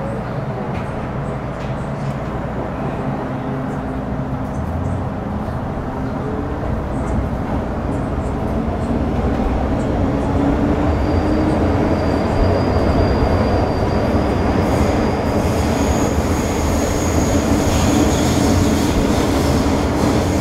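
Inside an MTR Metro Cammell M-Train (CM-Stock) electric multiple unit pulling away: the traction motor whine rises in pitch and the running noise grows louder. About halfway a high steady tone from the GEC GTO chopper control appears, then steps up to a higher pitch near the end.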